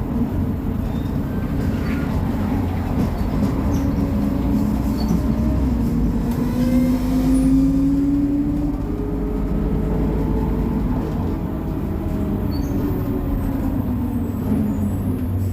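Diesel engine of a Mercedes-Benz O500MA BlueTec 5 articulated bus running under way. The engine pitch climbs and falls back twice, the first climb the loudest, as the ZF Ecomat automatic gearbox takes the bus up through its gears.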